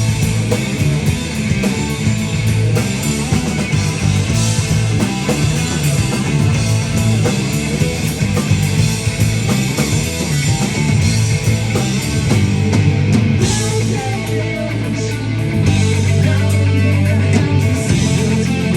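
Live rock band playing: electric guitar over a drum kit and bass.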